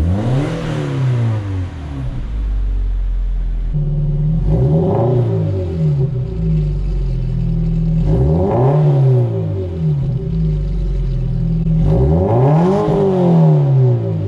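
Scion FR-S's 2.0-litre flat-four running through a newly fitted Corsa cat-back exhaust, idling and revved four times, each rev rising and falling back to idle.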